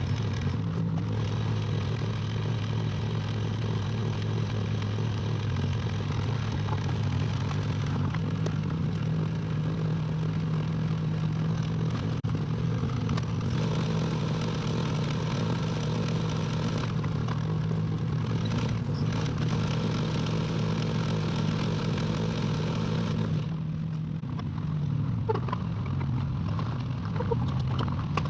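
Excavator's diesel engine running steadily under work. About 23 seconds in, it eases a little and a few sharp knocks follow.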